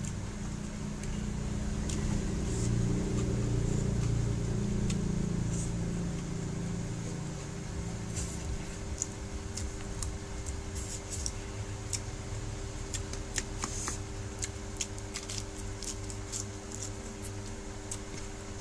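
Close-up eating sounds: chewing with many short mouth clicks and smacks, thickest in the second half. Under them, a low rumble swells and fades over the first several seconds, then gives way to a steady low hum.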